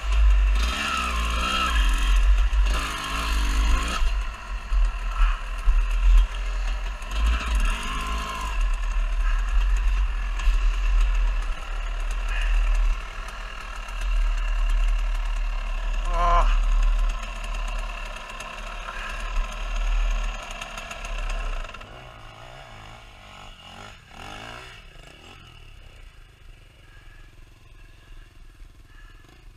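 Off-road enduro motorcycle engine revving up and down under load on a climb, over a heavy low rumble. About 22 seconds in it drops away to a much quieter, low-level running sound.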